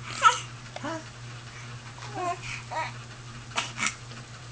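Infant squealing and cooing in short, high-pitched sounds, the loudest a sharp squeal near the start, over a steady low hum.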